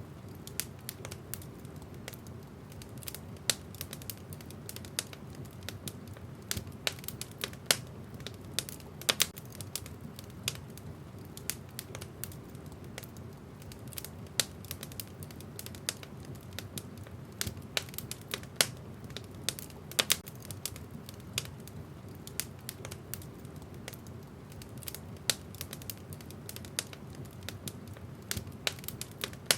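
Wood fire burning in a fireplace, with irregular sharp crackles and pops of the burning logs over a steady low rumble of the flames.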